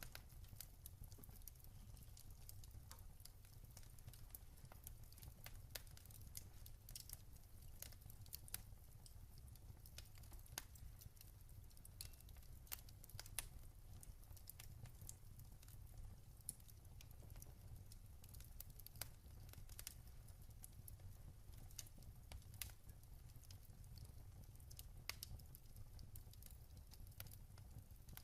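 Quiet wood fire crackling: irregular small pops and snaps over a steady low rumble.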